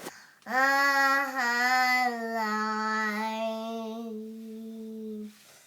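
A young child's voice holding one long sung note of nearly five seconds, dipping slightly in pitch near the start and then staying level.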